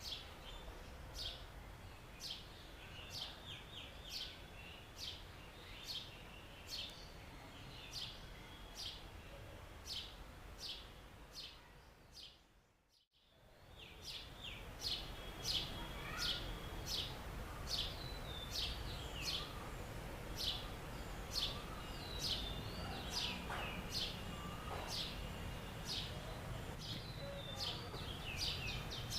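House sparrow chirping: short repeated cheeps, about one or two a second, over a steady low background rumble. The sound fades out and back in about halfway through.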